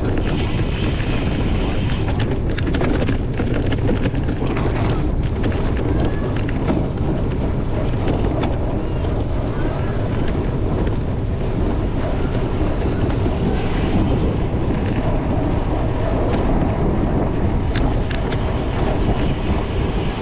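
Wind buffeting the microphone over the rumble and rattle of a cyclocross bike ridden hard over rough ground, with many small clicks and knocks throughout.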